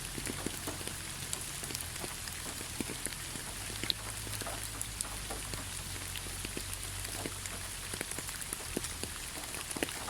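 Heavy rain falling in a steady hiss, with many separate drops ticking sharply on a hard surface.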